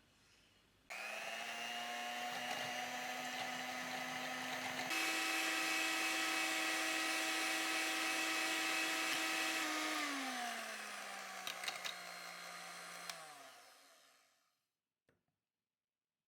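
Small electric kitchen appliance motor starting up and running steadily, switched to a higher speed about five seconds in, then switched off and winding down until it stops near the end.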